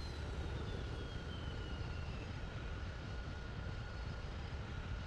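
Boeing 747-400 jet engines running at idle as the airliner moves onto the runway. A steady whine sits over a low rumble, and a higher whistle falls in pitch and fades out about two seconds in.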